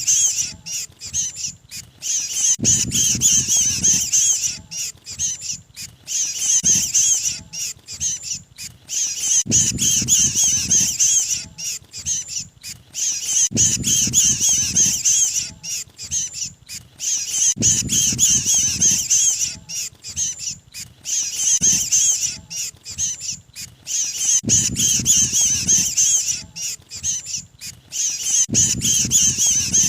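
Looped lure recording of a mantenan bird's 'kejepit' distress call, the cry of a pinched or trapped bird. Bouts of rapid, high chattering calls about two to three seconds long repeat about every four seconds, each with a low rumble at its start.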